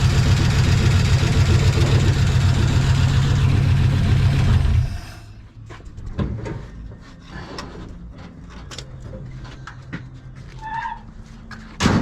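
1956 Chevy 150 engine idling steadily, then switched off about five seconds in; its valves still need adjusting. After it stops come scattered light clicks and a sharp knock near the end.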